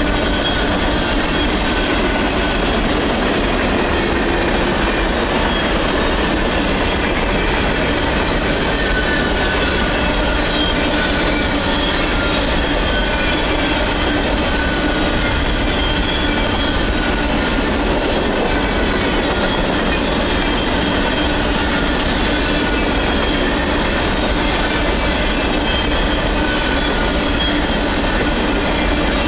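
Empty coal hopper cars of a freight train rolling past at a grade crossing: a steady, loud wheel-on-rail noise with rhythmic clickety-clack from the wheels over the rail joints.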